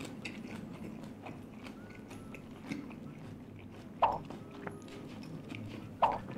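Close-miked chewing and wet mouth sounds from eating a mouthful of rice and steamed sea bass, with small clicks throughout and two louder smacks about two seconds apart in the second half.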